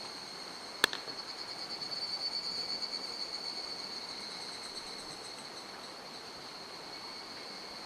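Steady rush of a mountain stream with a high, pulsing trill from a calling insect or frog above it, and one sharp click about a second in.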